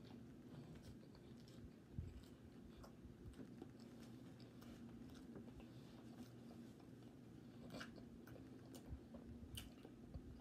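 Faint close-up chewing of a cheese sausage dog in a soft bun: soft wet mouth clicks and smacks scattered throughout, with one louder knock about two seconds in.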